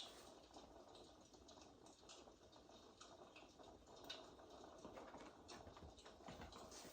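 Faint crackling of a fireplace sound recording, with scattered small clicks and ticks.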